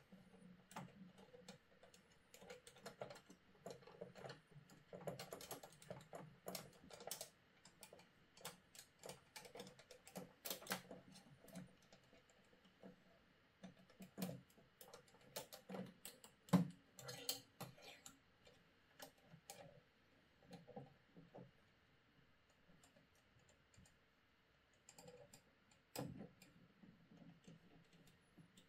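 Irregular light clicks and taps of screws and a hand tool being worked against the 3D printer's parts, dense at first and thinning out in the second half.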